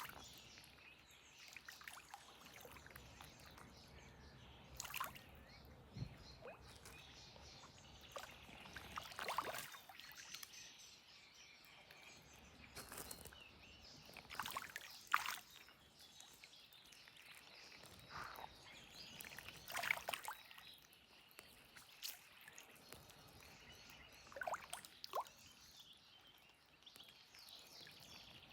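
Quiet water-side ambience: faint water sloshing and trickling, with a dozen or so short, sharp splashes or drips scattered through it.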